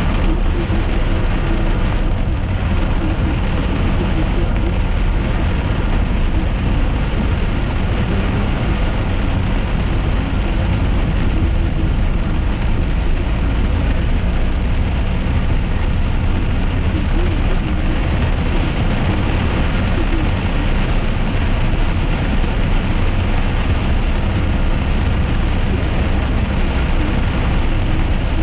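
A car driving in rain, heard from inside the cabin: a steady low rumble of engine and tyres on wet road, with rain on the car.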